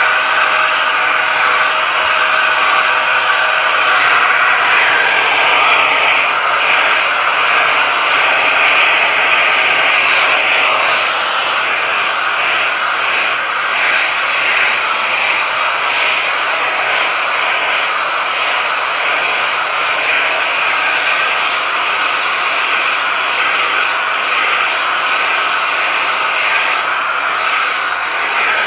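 Vacuum cleaner running steadily while vacuuming, a loud even hiss of motor and airflow that dips slightly in level about eleven seconds in.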